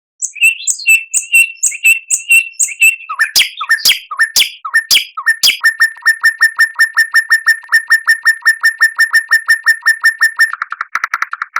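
A songbird singing a loud song: a run of evenly spaced clear notes, two or three a second, then a few sharp sweeping notes about three seconds in, then a long fast series of repeated notes, about six a second.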